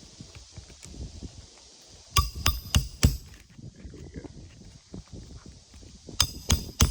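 Hammer striking a snake tool, the steel bar used to drive roofing nails under a lifted shingle, with sharp ringing metal-on-metal blows: about four a couple of seconds in, then three more near the end.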